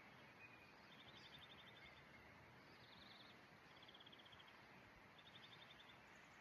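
Quiet outdoor ambience: a faint steady hiss with short, high, rapid trills that recur every second or two.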